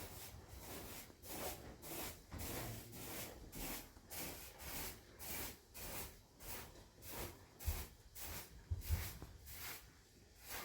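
Rhythmic scraping or rubbing strokes, about two a second, steady and even.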